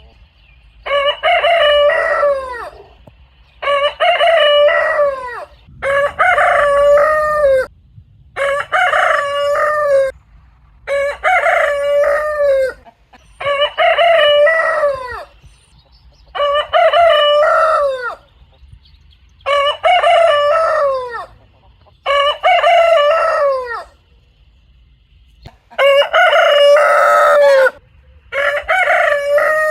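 Rooster crowing over and over: about eleven full cock-a-doodle-doo calls, each about two seconds long, one every two to three seconds with short pauses between.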